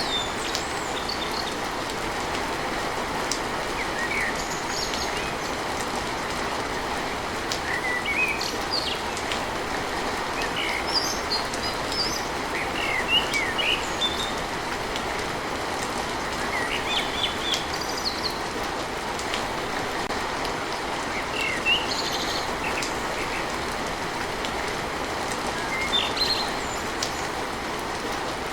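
Steady rain pattering on a tin roof, with birds chirping in short bursts every few seconds over it.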